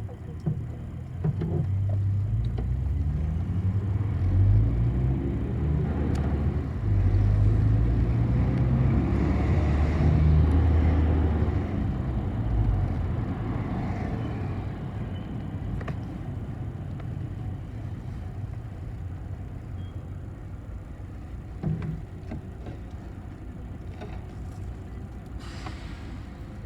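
City bus engine heard from inside the cabin, pulling away and accelerating, its pitch climbing in two stages through a gear change. It eases off about twelve seconds in to a quieter steady run, with a short knock about 22 seconds in and a brief hiss near the end.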